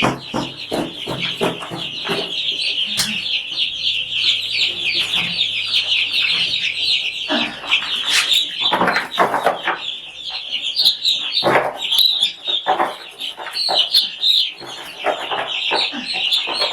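A flock of young chicks peeping continuously, many short high cheeps overlapping into a dense chorus. A few knocks and rustles come through now and then.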